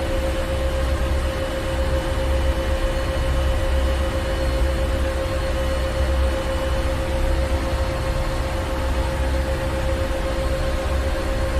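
Ship engine-room machinery running steadily: a deep, unbroken rumble with a constant mid-pitched hum and a hiss over it.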